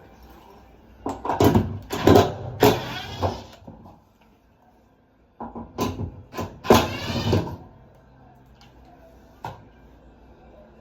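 Scraping and knocking of washer-dryer panel parts being handled during disassembly, in two bursts of a couple of seconds each, then a single sharp knock near the end.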